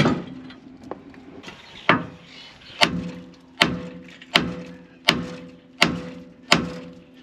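Hammer blows on steel, about eight of them, one every three-quarters of a second or so, each leaving a short metallic ring: pounding to knock a worn ball joint out of a Ford F-150's front suspension.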